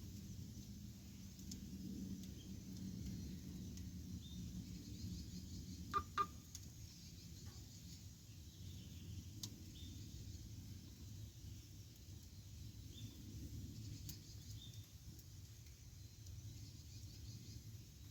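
Campfire burning with a low steady rumble and scattered crackles, two sharp pops about six seconds in; faint bird chirps now and then.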